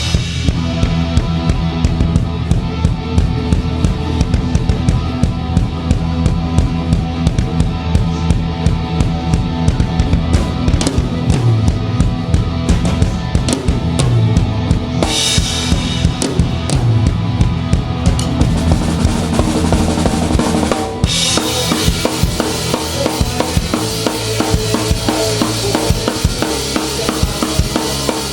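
Live rock band playing an instrumental passage, with the drum kit heard close and loud: kick and snare drive a steady beat over bass and guitars. About twenty seconds in, the cymbals open up into a bright, continuous wash.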